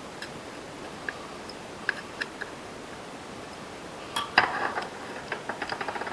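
Small hard clicks and ticks of a hand driver and screw as a screw is fitted into the RC car's rear brake assembly: a few scattered clicks, then a louder cluster about two-thirds in and a quick run of ticks near the end, over a steady hiss.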